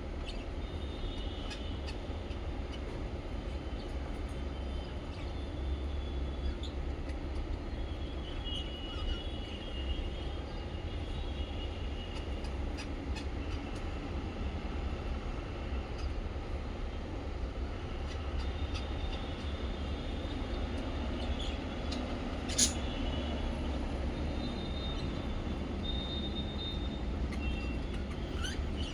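Small caged parrots (budgies and lovebirds) chirping faintly in short scattered calls over a steady low rumble. There is one sharp click about 22 seconds in.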